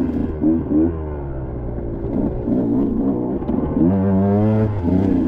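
KTM 125XC two-stroke single-cylinder dirt bike engine running, its revs climbing and dropping several times as the throttle is worked on and off.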